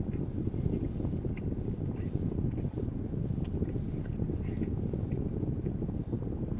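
Air from an air-conditioner vent blowing onto the microphone: a steady low rumble, with faint chewing and mouth clicks over it.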